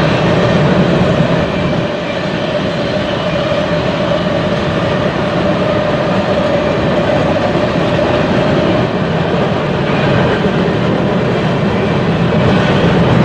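Freight train's cars rolling by on the rails: a steady, loud rumble and rattle with a constant hum running through it.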